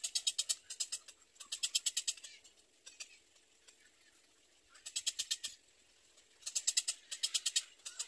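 Rapid ticking bird calls in short bouts of under a second, about a dozen ticks a second, repeated several times with a pause of about a second and a half near the middle.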